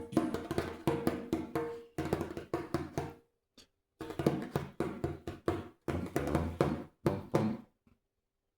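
Djembe tapped by one hand on its drumhead: a loose run of quick strikes, pausing briefly about three seconds in, then stopping near the end.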